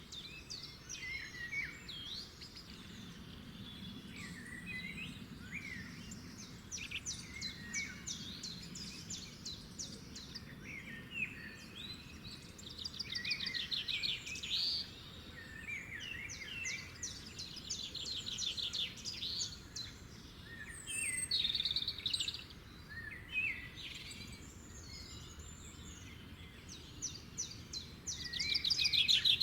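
Several wild birds singing and calling at once, with chirps, quick pitch sweeps and fast rattling trills coming in bouts over a faint low background noise.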